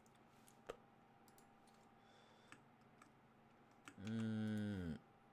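A few scattered computer keyboard clicks, then about four seconds in a person hums a long, level 'hmm' for about a second that dips in pitch at the end.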